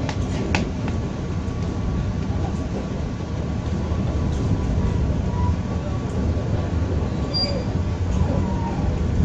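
Steady low rumble of a passenger train carriage running along the track, heard from inside the coach, with a few sharp clicks in the first second.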